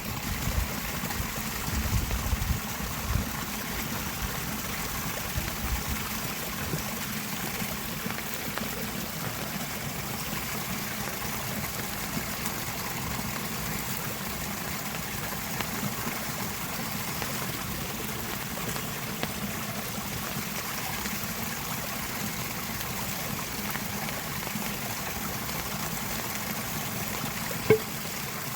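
Steady rush of flowing water, with a few low thumps in the first few seconds and one sharp click shortly before the end.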